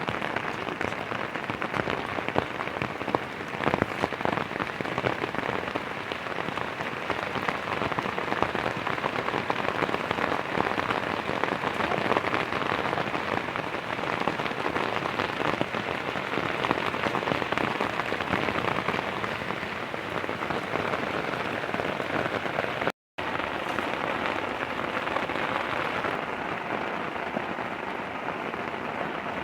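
Heavy rain falling steadily, a dense hiss of countless close drop hits, with a momentary break in the sound about three quarters of the way through.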